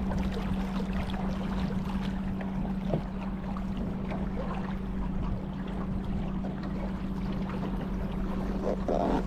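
Water splashing and trickling around a boat on the river, over a steady low hum.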